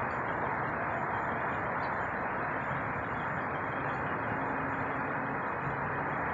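Jet airliner's engines heard in flight, a steady rushing noise with a faint low hum.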